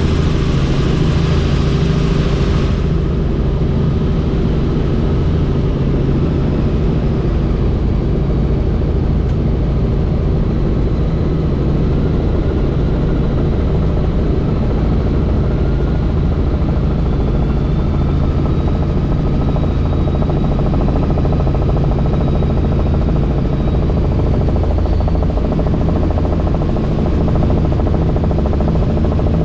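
Helicopter rotor and turbine drone heard from inside the cabin in flight, a steady deep throb with a hiss over it that drops away about three seconds in.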